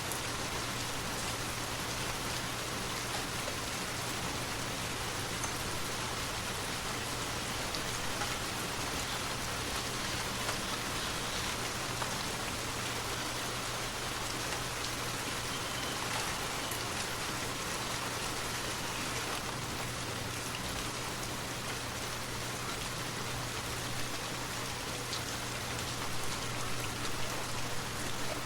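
Steady rain falling, an even unbroken hiss with a few faint scattered drop ticks, over a steady low hum.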